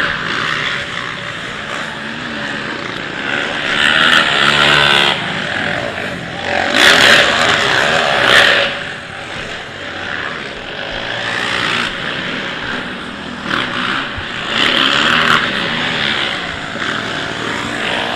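Racing quad (ATV) engines revving up and down as several machines run the track, swelling louder as they pass about 4 seconds in, again around 7 to 8 seconds, and near 15 seconds.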